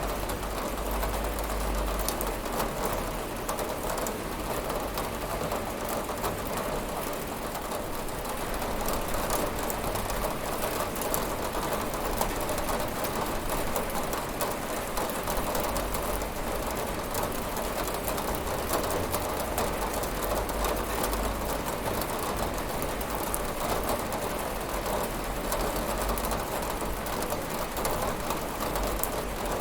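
Steady rain falling on a window, a continuous even patter with fine drop ticks and no thunder.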